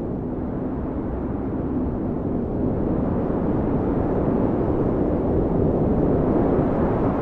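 Strong blizzard wind blowing steadily, a deep rushing noise that swells slightly partway through.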